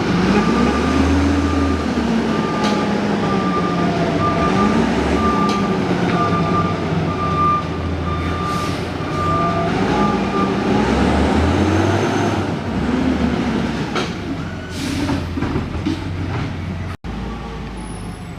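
Garbage truck backing up: its reversing alarm beeps about once a second over the diesel engine, which revs up and down. The beeping stops about twelve seconds in, and a few short hisses follow.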